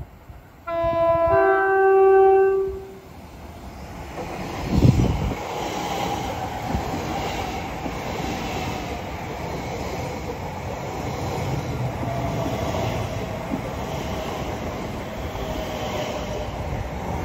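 Elizabeth line Class 345 electric train sounding its two-tone horn about a second in, a short lower note then a longer higher one, then running along the platform with a steady rumble of wheels on rail and a faint motor whine. A loud low thump comes about five seconds in.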